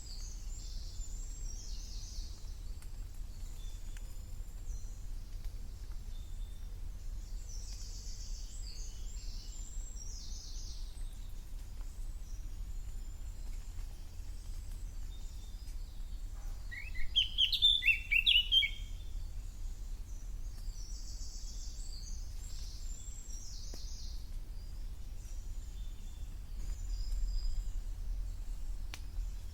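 A wild songbird gives one short burst of chirps about halfway through. Behind it are faint high-pitched calls that come and go, and a steady low rumble.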